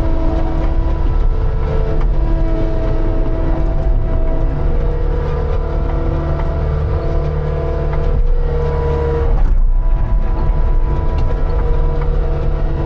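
Diesel engine of a piece of heavy equipment running steadily under load, its pitch shifting a little a few times.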